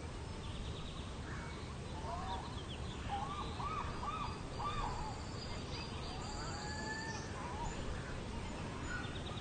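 Outdoor ambience with several bird calls: short arched chirps and a few high trills over a steady low rumble.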